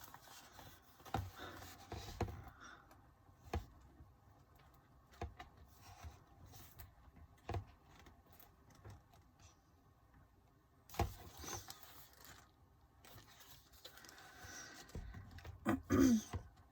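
Light handling of the album's paper photocards and booklet: scattered soft taps and faint rustling as cards are set down and shuffled, with a brief voiced hum near the end.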